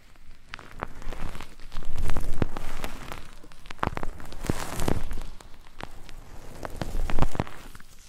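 Close-miked ASMR trigger sounds: dense crackling and rustling with many sharp clicks, swelling and fading in waves every second or two.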